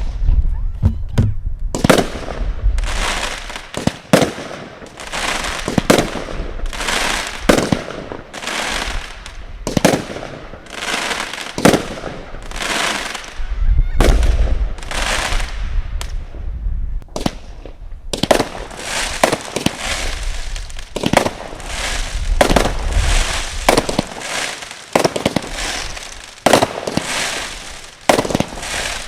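Consumer firework cakes going off: a rapid, continuing run of bangs, roughly one every half second to second, with hissing and crackling between the reports.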